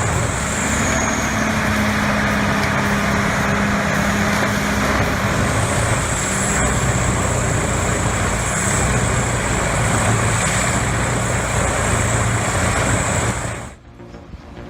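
Heavy machinery running steadily under power: a low diesel engine hum under dense mechanical noise, with a thin high whine. It cuts off abruptly near the end.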